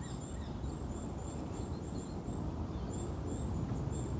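Park ambience: a steady low background rumble with faint, high, short bird chirps repeating throughout.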